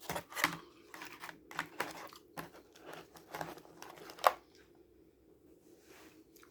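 Plastic candy packaging crinkling and crackling as a gummy sushi piece is worked out of it: a quick irregular run of crackles and clicks that stops about four seconds in.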